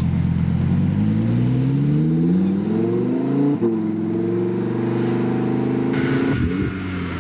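Supercar engine accelerating: its pitch rises for a couple of seconds, drops sharply about three and a half seconds in as at a gear change, then holds steady before easing off near the end.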